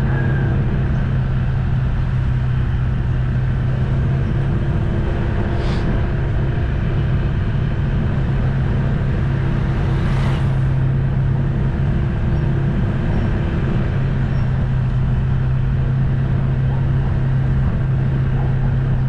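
Small motorcycle engine running at a steady cruise with a constant low hum while riding, with two short hissing whooshes about six and ten seconds in.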